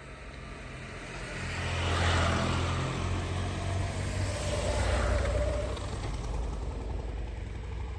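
Engines of road vehicles passing close by, one of them a three-wheeled motorbike, swelling to a peak about two seconds in and again about five seconds in, then fading; noisy.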